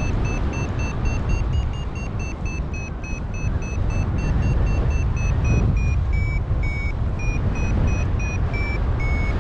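Paragliding variometer beeping in a climb, short high beeps about four a second that slow slightly and drop a little in pitch near the end as the lift eases, over heavy wind rumble on the microphone.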